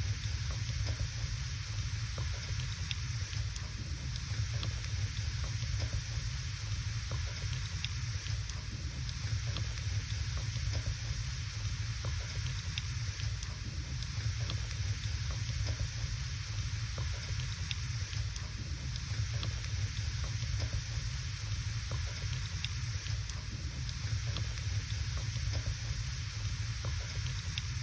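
Wood fire burning in a fireplace: a steady hiss and low rumble with scattered small crackles and pops from the logs.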